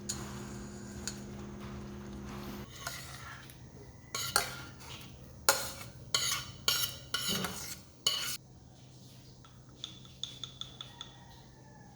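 A utensil stirring, scraping and clinking against a dish in a run of about eight strokes, then a few lighter clinks near the end. Before that, a steady hum stops suddenly just under three seconds in.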